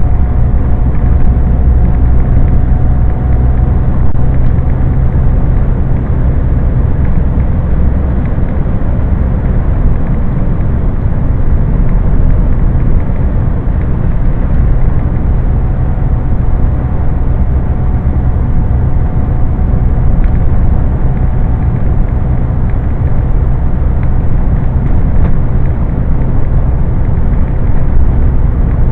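Scania truck's diesel engine and road noise heard from inside the cab, a steady low drone while driving at an even speed.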